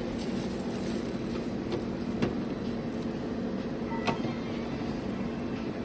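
Steady rumble and low hum of a vehicle running, with two sharp clicks about two seconds apart.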